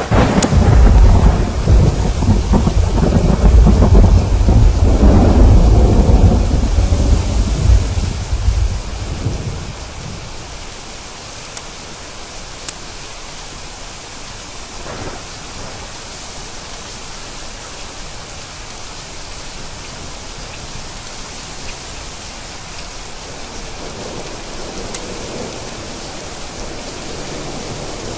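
A thunderclap breaks out and rumbles deeply for about nine seconds before fading, over steady heavy rain; the rain goes on alone afterwards with a few sharp drips or clicks, and a faint rumble swells again near the end.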